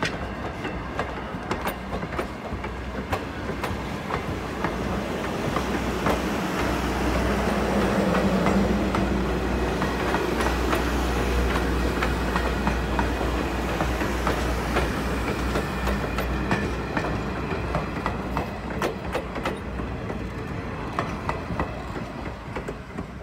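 Railroad passenger coaches rolling past close by: a steady rumble with wheels clicking over the rail joints, dying away near the end as the last car passes.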